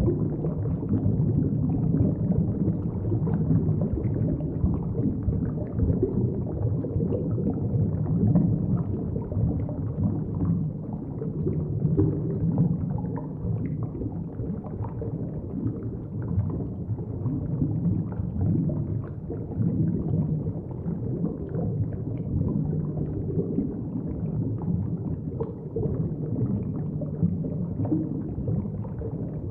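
Underwater ambience picked up by a submerged camera: a steady, muffled low rumble of moving water, with faint crackles and ticks.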